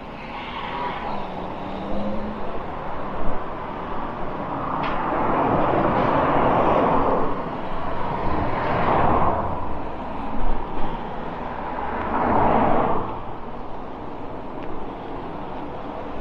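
Road traffic: cars passing by one after another, three swells of tyre and engine noise that rise and fall over a steady traffic hum.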